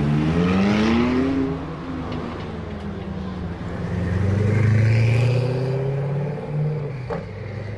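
Supercar engines in a pit lane: one revs up with a rising note in the first second and a half, then a Koenigsegg's V8 grows louder as it pulls past at low speed and drives off, loudest about five seconds in.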